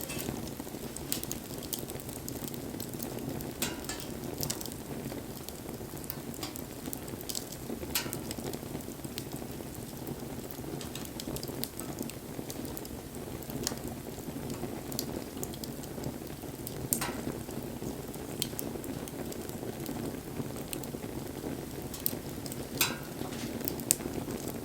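Wood campfire burning: a steady low rush of flame with irregular sharp crackles and pops from the burning wood, every second or two.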